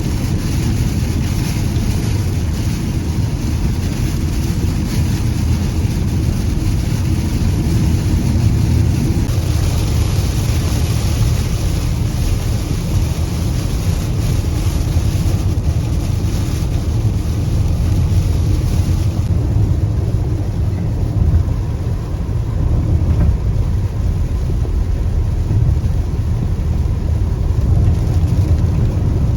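A car driving, a steady low rumble of road and engine noise heard from inside, with a hiss on top that drops away about two-thirds of the way through.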